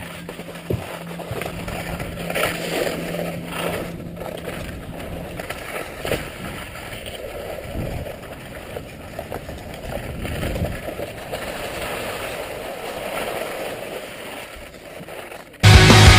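Skis sliding and scraping over packed snow on a downhill run, an uneven rushing noise with small clicks. Loud rock music cuts in near the end.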